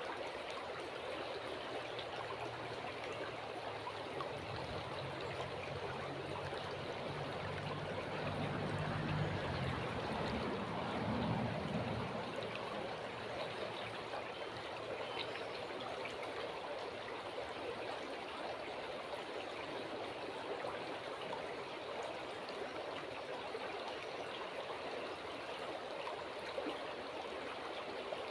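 River water flowing steadily, a continuous rushing wash. A low hum swells in the first half and fades away.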